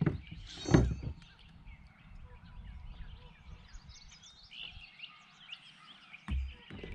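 Birds chirping and singing in the background, with a loud thump about a second in and another short thump near the end.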